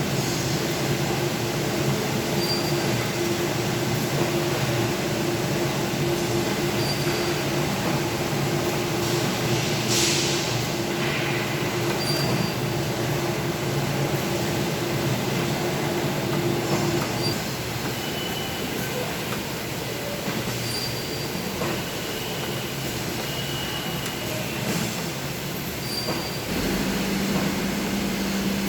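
Thermal fogging machine running with a steady, loud drone; its pitch shifts about two-thirds of the way through and rises to a higher steady note near the end.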